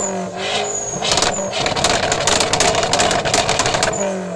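Dodge Neon's four-cylinder engine revved hard while parked, held at high revs with a dense, rapid crackle through the middle. The revs fall away near the end.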